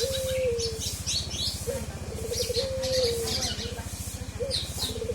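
A kepodang hutan (dark-throated oriole) singing its learned filler song. A low whistled phrase, rising and then held, repeats about every two and a half seconds, with quick high chirps between. A steady low hum runs underneath.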